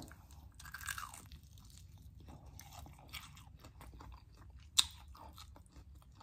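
Close-up chewing and crunching of a crispy fried chicken wing coated in hot sauce, faint and crackly, with one sharp, louder crunch nearly five seconds in.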